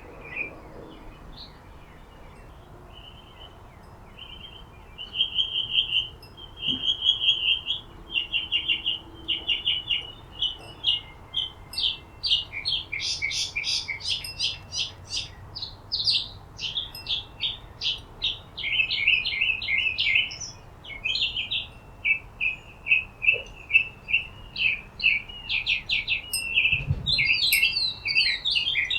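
Birds chirping in a rapid chatter of short, high notes. The calls are sparse at first and become a busy, near-continuous stream from about five seconds in.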